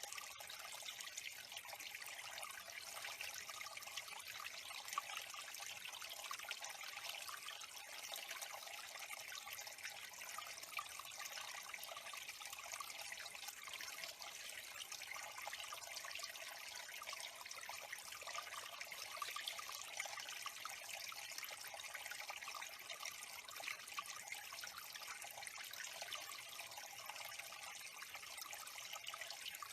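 Water of a bird pond trickling steadily, a constant faint splashing.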